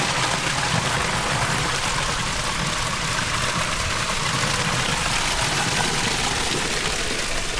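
Strong wind blowing across the microphone: a loud, steady rush with a low, gusting rumble underneath.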